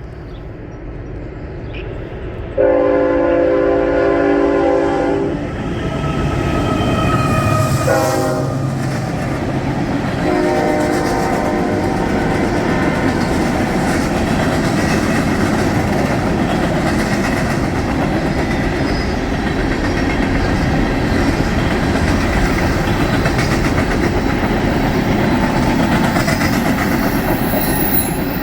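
Norfolk Southern diesel locomotive's air horn sounds three blasts: a long one about three seconds in, a short one that drops in pitch, and another long one. The locomotive and its empty coal cars then rumble and clatter steadily past.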